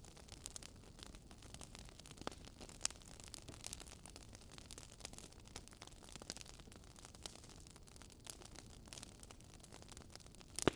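Wood fire crackling softly, with irregular small pops and snaps over a low hiss.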